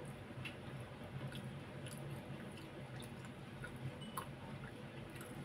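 Faint chewing of rice and roast duck, with small soft mouth clicks, over a low steady hum.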